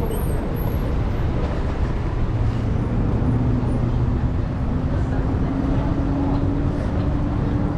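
City street traffic: a steady low rumble of vehicles, with one engine's hum slowly rising in pitch from about halfway in.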